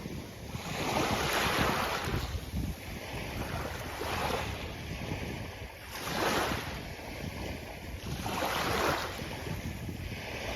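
Sea waves breaking and washing up a beach: three swells of hissing surf, about a second in, at about six seconds and at about eight and a half seconds, over a steady low rumble of wind on the microphone.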